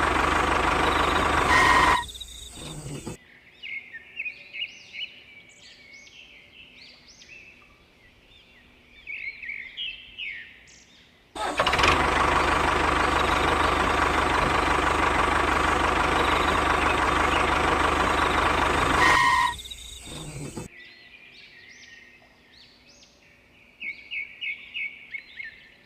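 The small motor of a homemade model tractor running with a steady, loud mechanical drone in two stretches, each cut off abruptly. Between the stretches, birds chirp quietly.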